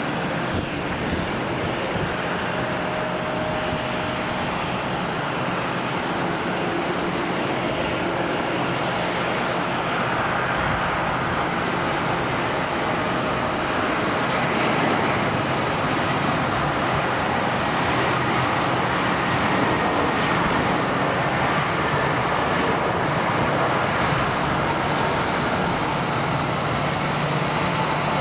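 Aircraft engines at an airport: a steady rushing noise with faint whining tones, growing slightly louder past the middle.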